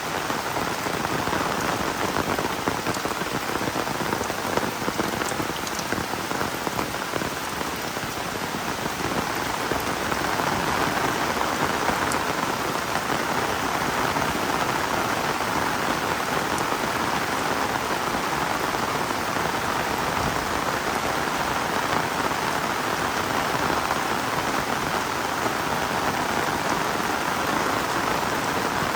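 Heavy rain falling steadily, a dense even hiss that grows slightly louder about ten seconds in.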